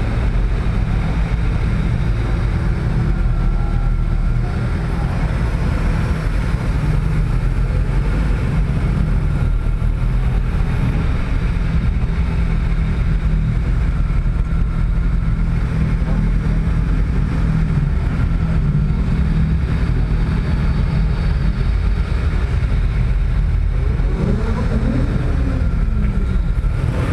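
Car engine running steadily at low speed with a low rumble, and a faint tone gliding up and down near the end.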